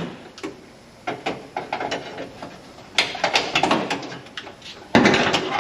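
Clicks and metallic rattles as the heater control cables and their sheet-metal brackets are worked loose by hand in an old pickup's cab, with a louder scraping clatter near the end.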